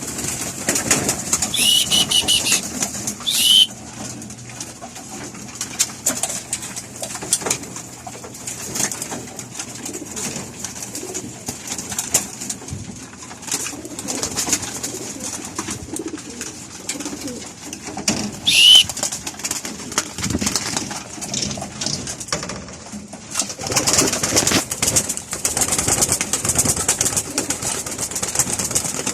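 Domestic pigeons cooing, with a few short high-pitched calls and stretches of scratchy rustling.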